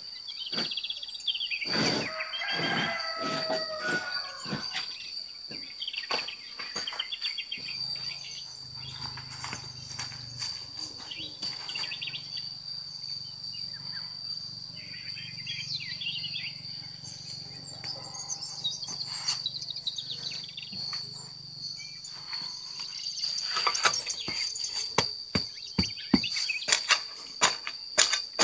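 Insects keep up a steady high drone, with birds chirping in the first few seconds. Scattered knocks and clicks run throughout. A low hum comes in about eight seconds in and stops a few seconds before the end, followed by a run of sharper clinks.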